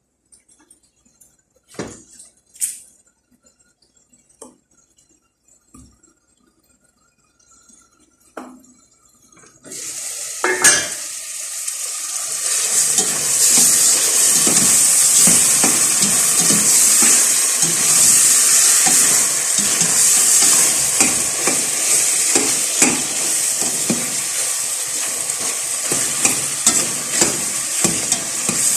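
A few light clinks of cookware, then about ten seconds in food goes into a hot pan and starts sizzling loudly in oil, with a spatula stirring and scraping against the pan.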